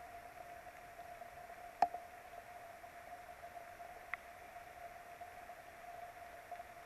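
Steady hiss of rain on a nest camera's microphone, over a constant faint electrical hum. A sharp tap about two seconds in and a lighter tick about four seconds in.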